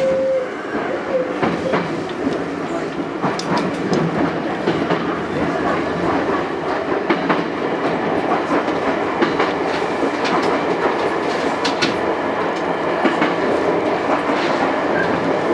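Chichibu Railway 7500-series electric train running along the line, heard from inside the front car: a steady rumble of wheels on rail with sharp clicks every second or two as the wheels cross rail joints.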